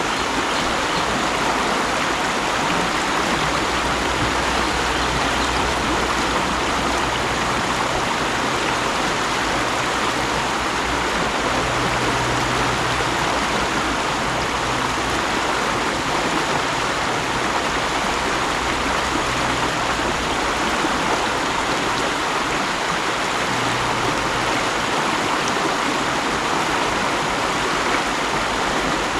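Mountain stream running steadily over rocks, a constant rush of flowing water.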